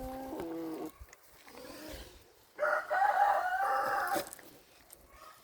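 A rooster crowing once, a loud drawn-out call of about a second and a half starting about two and a half seconds in. A shorter, lower bird call is heard at the start.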